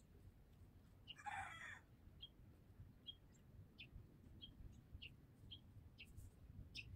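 Birds calling faintly: one short, louder call about a second in, then a small bird chirping at a high pitch, roughly one to two chirps a second.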